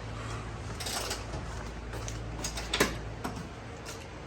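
A few scattered metal clicks and clinks from hand tools working on car suspension bolts, the strongest a little under three seconds in, over a low steady hum.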